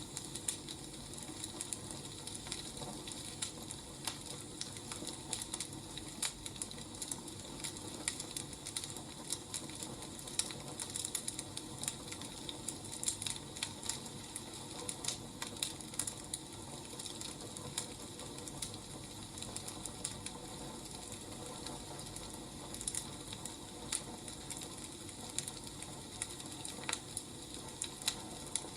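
Wood fire crackling: irregular snaps and pops over a steady low hiss.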